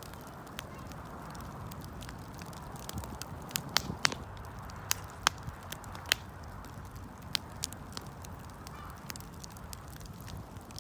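Wood fire burning: irregular sharp crackles and pops of the burning wood, a dozen or so, over a steady low rush of the flames.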